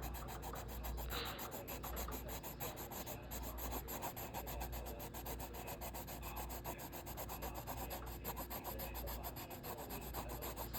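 A colouring tool being scrubbed back and forth on a drawing to fill in colour, in quick repeated rubbing strokes, many to the second.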